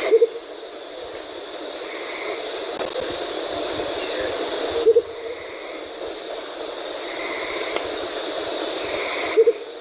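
Andean motmot giving its low, hollow double hoot three times, about four and a half seconds apart, over a steady high-pitched background drone.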